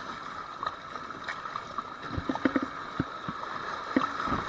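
A kayak moving on river rapids: a steady rush of flowing water with irregular short splashes and knocks, coming more often in the second half.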